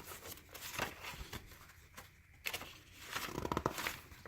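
Faint rustling and light clicks of paper pages being handled and turned in a handmade book.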